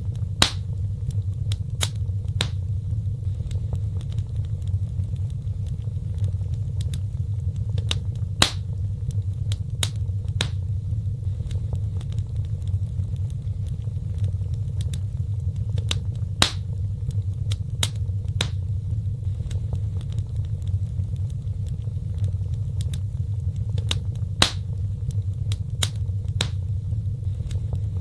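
Wood fire burning in a fireplace: scattered sharp crackles and a few louder pops over a steady low rumble of the flames.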